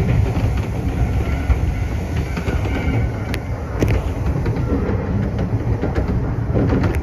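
Iyotetsu 3000 series electric train running, heard from inside the car: a steady low rumble of wheels on the rails with a few sharp clicks over the track.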